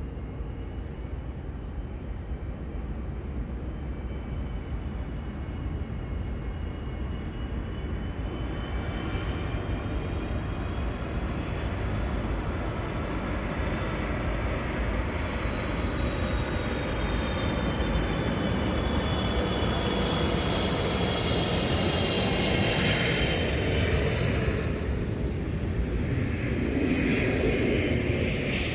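Airplane flying low overhead, its engine whine gliding slowly in pitch over a steady rumble and growing louder toward the end, near an airport's takeoff or landing path.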